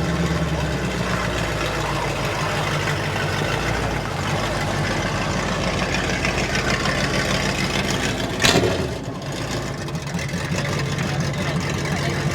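Car engine idling steadily, with a single sharp knock about eight seconds in.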